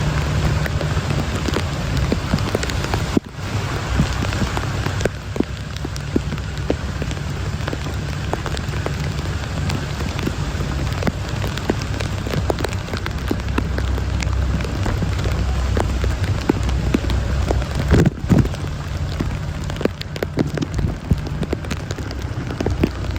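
Heavy rain pouring down, with many sharp close drop hits over a steady hiss and a strong low rumble underneath.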